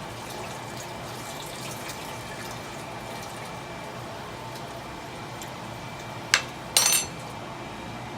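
Steady kitchen hiss, then about six seconds in a sharp click followed half a second later by a brief ringing clink: a utensil knocking against a dish while sauce ingredients are measured and added.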